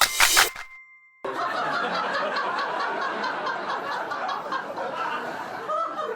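A chime fades out, and about a second in a crowd starts laughing and chuckling, a steady murmur of many voices laughing, like a laugh-track sound effect.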